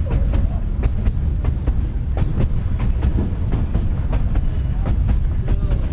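Cumbres & Toltec narrow-gauge passenger car rolling along the rails. It makes a steady low rumble, with frequent irregular clicks and clacks from the wheels on the track.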